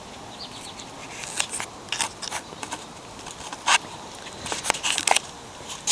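Irregular light clicks and short scrapes of a used walk-behind lawn mower's plastic and metal parts being handled, over a steady outdoor hiss.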